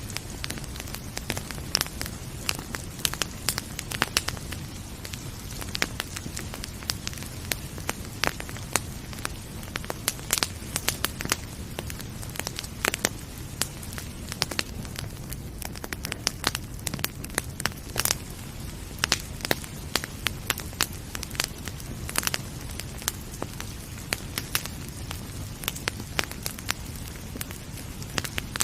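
Wood fire crackling, with frequent irregular sharp pops and snaps over a steady low rumble of the burning logs.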